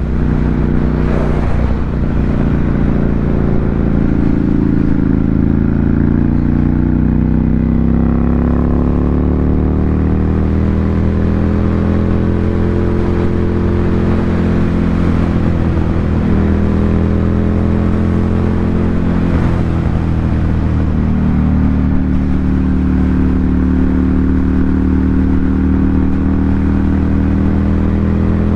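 Ducati Monster 797's air-cooled L-twin running through an SC Project aftermarket exhaust, its note rising slowly in pitch, easing off, then rising again.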